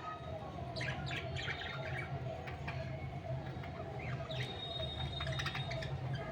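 Budgerigars chattering in quick short chirps and squawks, with a brief held whistle in the middle, over a steady low hum.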